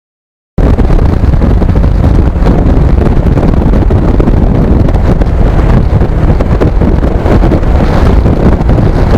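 Heavy wind buffeting on the microphone over a restored Kawasaki Ninja motorcycle's engine while riding. The sound is loud and steady and cuts in abruptly about half a second in.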